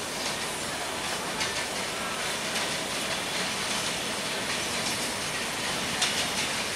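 Diesel-hauled passenger train approaching, its wheels clicking over the rail joints above a steady rushing rumble. The clicking grows louder near the end as the train draws closer.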